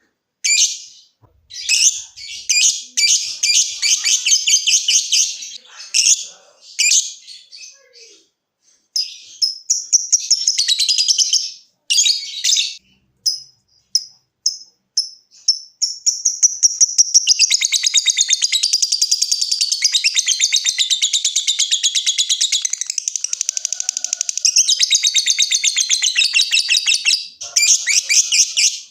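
Lovebird calling: short, broken chattering bursts, then about halfway through a long, unbroken, rapid rattling trill lasting about eleven seconds (the 'ngekek' call), and one more short burst near the end.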